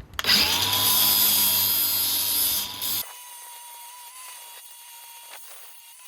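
A power tool abrading a steel bracket to round its edges, running loud and hissy for about three seconds before cutting off suddenly. A faint steady hum follows.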